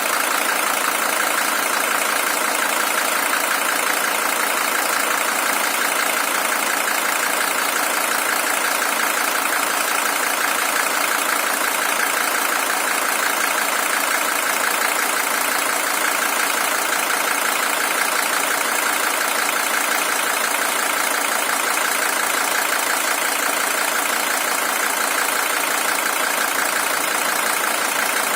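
Mercedes-Benz OM617 five-cylinder diesel in a W123 300TD idling steadily, warm after nearly an hour of running, with an even diesel clatter. It is the original engine at 620,000 km.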